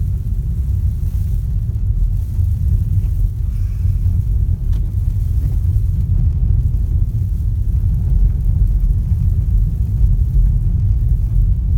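Steady low rumble of a Volkswagen Golf being driven, engine and road noise.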